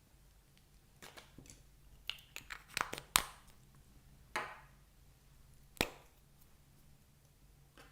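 Small clicks and taps from handling objects at close range: a quick run of them between about one and three and a half seconds in, then two more, the last a single sharp click.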